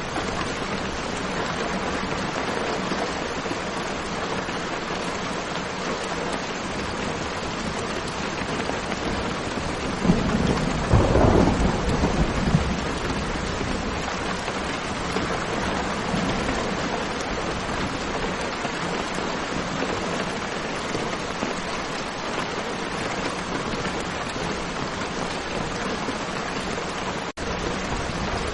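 Steady rain falling, with a low rumble of thunder about ten seconds in that lasts a couple of seconds. The sound cuts out for a split second near the end.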